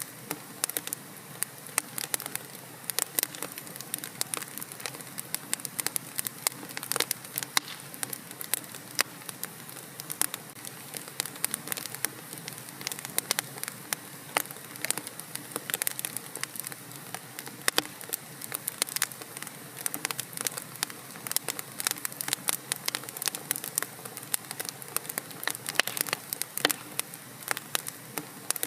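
Wood fire burning in a fireplace, crackling and popping irregularly over a steady low hiss.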